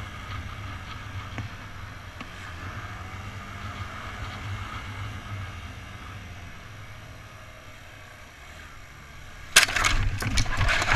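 A vehicle driving with a steady low road rumble, then about nine and a half seconds in a sudden loud road crash: several sharp bangs of a collision over about a second and a half.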